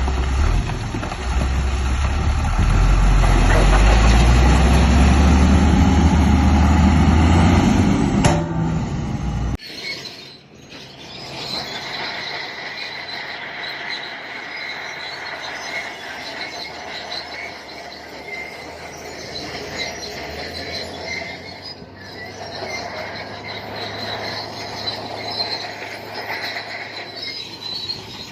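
Bulldozer's diesel engine running loud and heavy under load. About nine and a half seconds in, the sound cuts to a quieter engine with steady high-pitched squealing, typical of steel crawler tracks.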